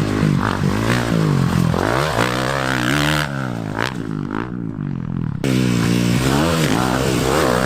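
Dirt bike engine revving hard, its pitch climbing and falling again and again as the rider twists the throttle and shifts. The sound turns duller for about two seconds in the middle.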